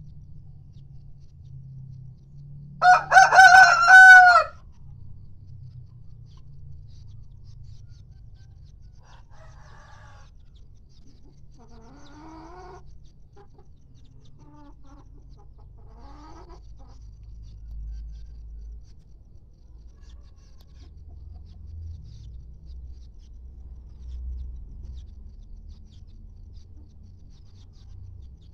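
Ayam kampung (free-range village chicken) rooster crowing once, loud and brief, about three seconds in, followed by a few faint clucks.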